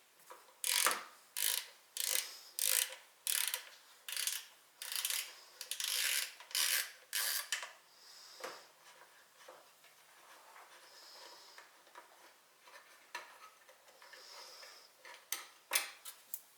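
Ratchet wrench being worked in strokes, about a dozen bursts of clicking over the first seven seconds, then a few lighter clicks near the end.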